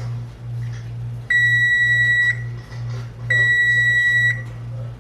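Electronic beeper sounding long, steady high beeps, each about a second long and one every two seconds, twice, over a low hum.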